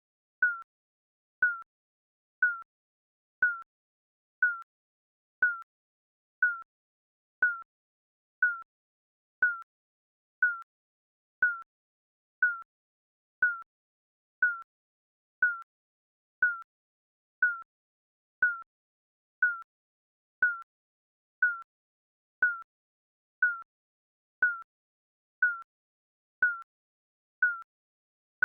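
Digital countdown timer beeping once a second: a short electronic beep at the same pitch each time, with silence between.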